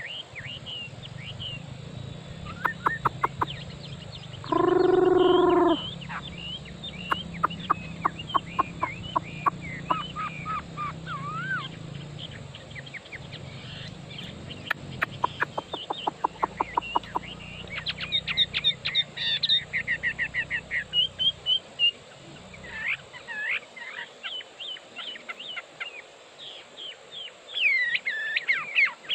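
Chinese hwamei (melodious laughingthrush) singing a long, varied song of whistled glides, rapid trills and repeated notes. About five seconds in, a louder, lower call lasting just over a second cuts across it, and a low hum underneath stops about 23 seconds in.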